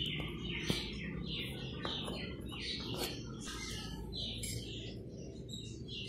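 Small birds chirping repeatedly, a few short calls a second, some falling in pitch, over a low steady background noise.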